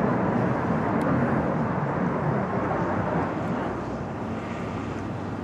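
F-16 Fighting Falcon jet flying past: a loud, steady jet roar that slowly fades as it moves away.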